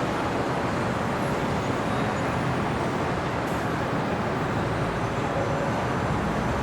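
Steady city traffic: a constant wash of road noise from passing cars and other vehicles.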